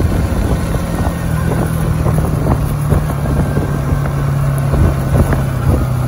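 Bajaj Pulsar NS200's single-cylinder engine running steadily while the motorcycle cruises at around 40–45 km/h, easing off slightly.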